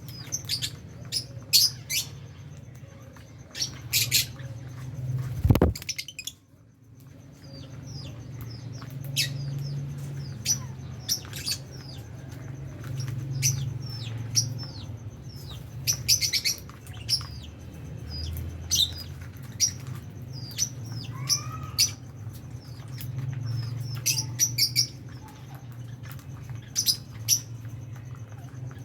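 A flock of lovebirds chirping: many short, sharp, high chirps overlapping throughout, with one loud knock about five seconds in.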